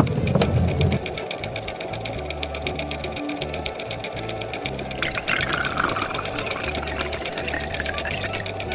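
A small machine running with a rapid, steady mechanical clatter, like a sewing machine, over background music.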